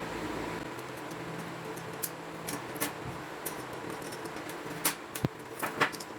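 A steady electrical hum runs under a string of sharp, irregular clicks and taps from small hard parts being handled. The clicks are loudest in a cluster near the end.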